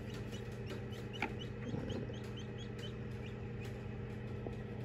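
Newly hatched chicks peeping: a run of short, high, downward-sliding peeps, several a second, over a steady low hum.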